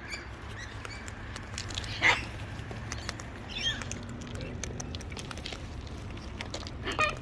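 Parrots feeding on seed, their beaks and feet making scattered small clicks and taps, with one short squawk about two seconds in and a faint chirp a little later.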